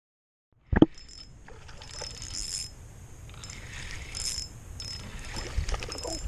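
A fishing reel being cranked in repeated spurts, a high whirring with faint ticking about every second and a half, as a hooked fish is reeled in. A sharp knock comes just as the sound begins.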